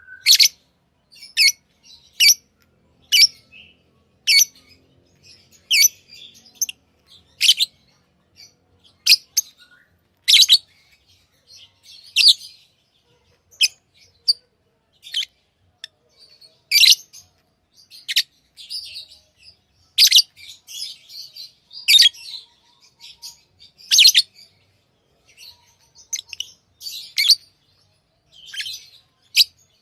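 Lovebirds chirping: short, sharp, high-pitched chirps about every second or two, with stretches of quicker chatter in between.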